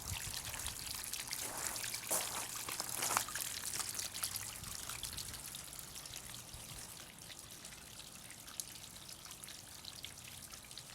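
Water from a pump-fed concrete bird-bath fountain trickling and splashing down into a plastic half whiskey barrel. A steady splashing that eases off a little in the second half.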